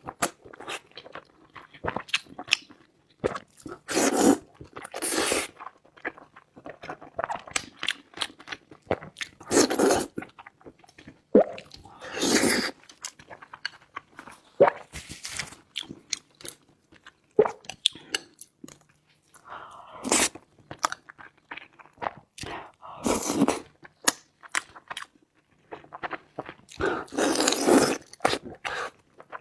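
Close-miked chewing and crunching of food: irregular wet mouth clicks and bites, with several louder, longer stretches of chewing.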